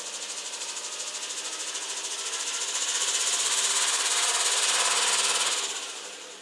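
Renault Espace IV's 2.0 dCi M9R four-cylinder diesel engine running with a rapid, even knocking. It grows louder about halfway in and falls back near the end, the way it does when the throttle is blipped. The knock comes on with throttle; the owner traces it to the timing chain area and has ruled out the injectors.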